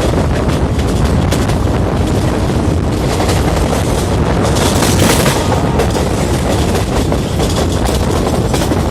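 Moving train: a steady rumble of the carriages on the track mixed with wind buffeting the microphone, with a brief rise in hiss about five seconds in.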